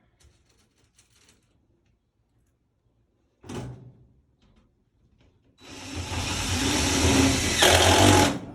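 A power tool running for about three seconds, building up and then stopping suddenly, after a brief burst of noise a few seconds earlier.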